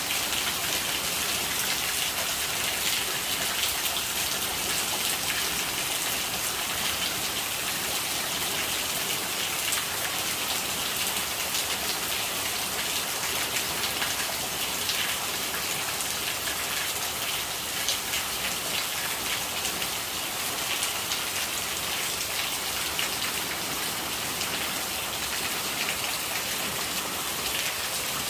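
Steady rain: an even hiss of falling water, strongest in the high range, with many small sharp ticks of drops striking a surface.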